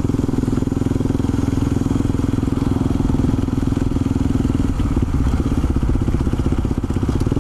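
Honda XRE 300's single-cylinder four-stroke engine running steadily while the bike cruises at about 35 km/h, its note dropping a little past the middle.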